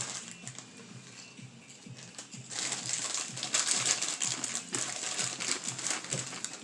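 Crinkling and rustling of a foil potato-chip bag being opened and handled, busier from about two and a half seconds in.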